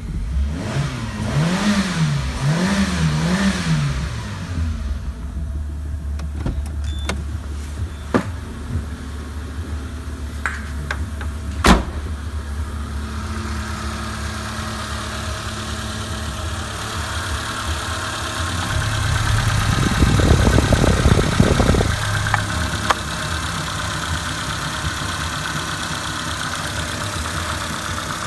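Peugeot 206 1.1i TU1JP (HFX) four-cylinder petrol engine running just after start. It is blipped up and down a few times at first, then idles steadily, with one sharp click near the middle. About two-thirds of the way through it is revved up and back down, then settles to idle again.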